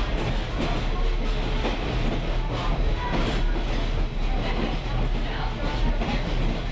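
Railroad caboose rolling along the track behind a diesel locomotive: a steady low rumble with wheel and rail noise.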